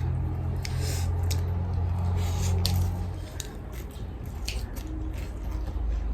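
Close-up eating sounds: wet chewing and sharp mouth clicks, scattered irregularly, over a low steady rumble that drops away about three seconds in.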